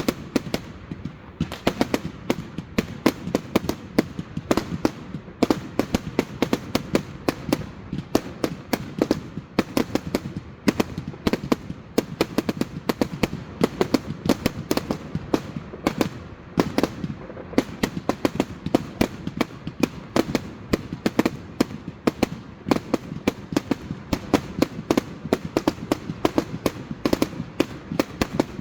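Fireworks going off: a rapid, irregular run of sharp bangs and cracks, several a second, over a low rumble of echoing explosions.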